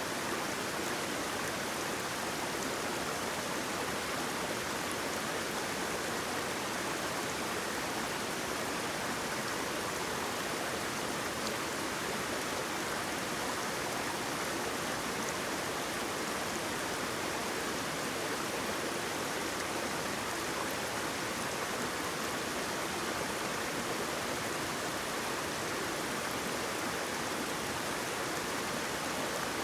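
Waterfall: water falling and flowing in a steady, even rush with no breaks or separate splashes.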